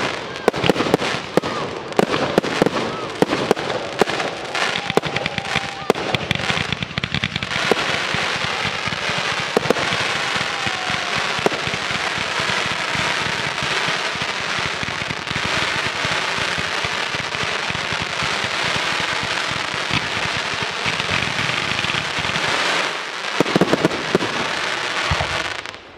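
Fireworks display: rapid bangs of bursting shells for the first seven seconds or so, then a dense, continuous crackle from many effects going off at once, with a few more loud bangs near the end.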